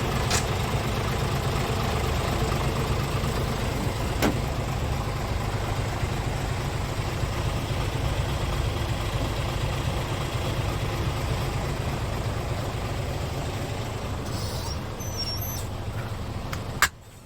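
Scania R450 truck's 13-litre six-cylinder diesel engine idling steadily, with a couple of short clicks. Near the end there is a sharp click and the engine sound drops away suddenly.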